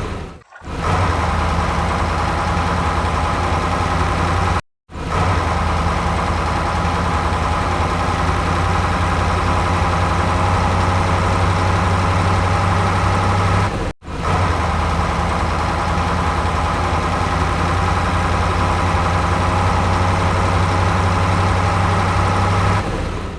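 A vehicle engine idling steadily, breaking off abruptly three times for a moment.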